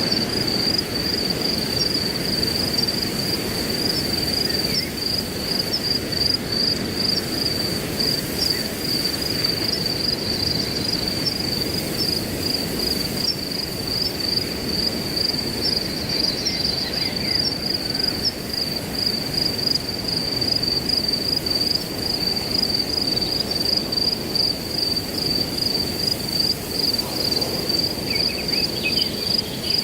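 Crickets chirping in a steady, rapidly pulsing high trill over a continuous rush of wind in grass. A few faint bird chirps come through, one near the middle and a couple near the end.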